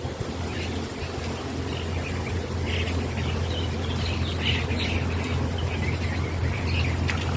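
Birds calling on and off over a steady low hum.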